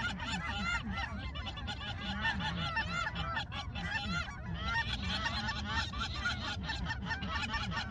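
A large flock of geese calling at once: a continuous din of many overlapping honks, with no break.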